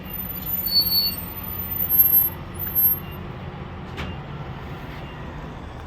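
Truck carrying a camper driving: steady engine and road noise, with a few louder jolts in the first three seconds and a sharp click about four seconds in.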